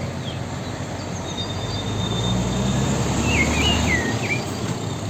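Outdoor ambience: a steady noisy background with a small bird chirping several short notes about two-thirds of the way in. A low hum swells up and fades away across the middle.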